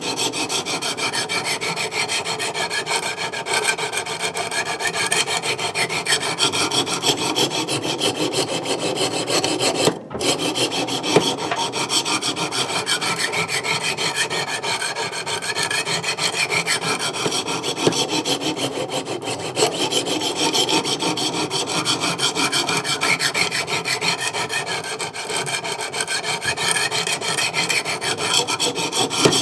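Coarse 200 grit diamond stones of a Wicked Edge Go sharpener rasping along an S35VN steel knife edge in repeated sharpening passes. There is a brief break about ten seconds in.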